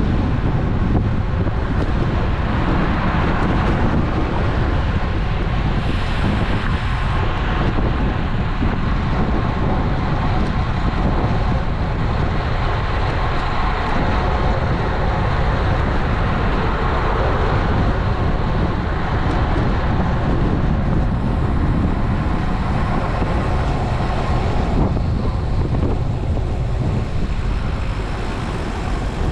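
Steady wind rush on an action camera's microphone riding along on a moving road bike, with road traffic noise under it.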